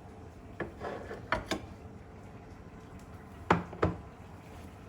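Microwave being opened and a bowl handled: a few light clicks in the first second and a half, then two louder knocks about three and a half seconds in, as the bowl is set down.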